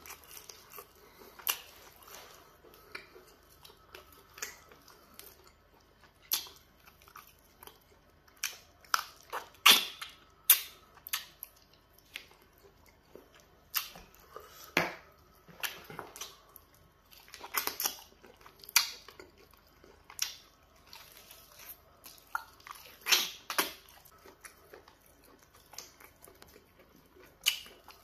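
Close-miked wet chewing and lip smacking of someone eating peanut butter soup with meat and pounded yam fufu. The smacks come irregularly and in clusters, loudest about ten seconds in.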